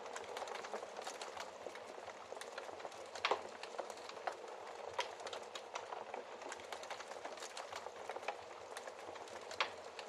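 Wood fire crackling in a fireplace: a steady hiss of small crackles broken by sharp pops, the loudest about three seconds in and again near the end.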